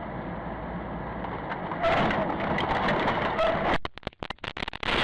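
Dashcam recording from inside a moving car: steady road and engine noise that turns louder and rougher about two seconds in, broken by a run of sharp clicks and dropouts near the end.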